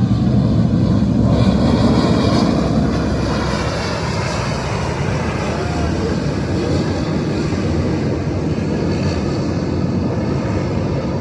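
Private jet's engines running, a loud steady rush of noise with a faint high whine over it.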